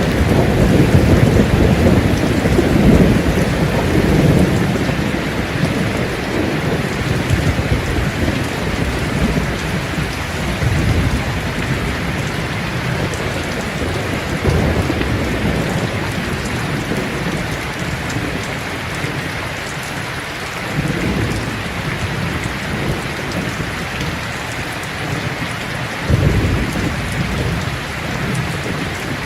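Steady heavy rain falling, with thunder rumbling low and loudest in the first few seconds, then coming back twice more in shorter rolls.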